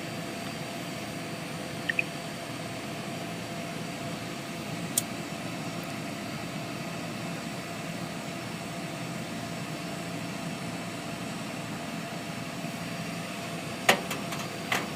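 Sharp microwave oven running with a steady hum. A few sharp clicks or pops break in, one about 2 s in, one about 5 s in and two near the end.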